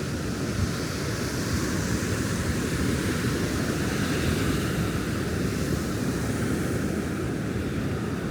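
Ocean surf washing steadily onto a beach, with wind buffeting the microphone in a low rumble.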